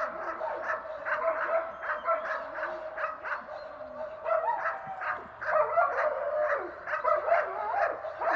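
Dogs barking and yelping over and over, with a steady high whine running underneath.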